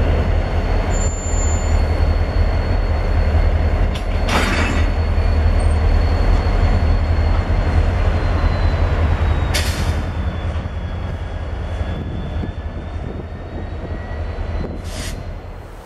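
Freight train rolling by on the rails: a steady low rumble with a thin, high wheel squeal that dips in pitch partway through. The sound fades over the last few seconds as the train moves away.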